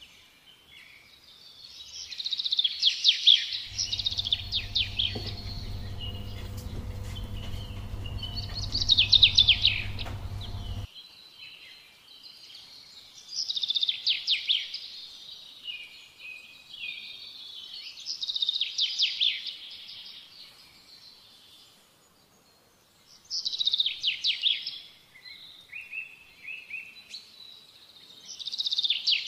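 Songbird singing short trilled phrases, repeated about every four to five seconds. A steady low hum starts a few seconds in and cuts off suddenly about eleven seconds in.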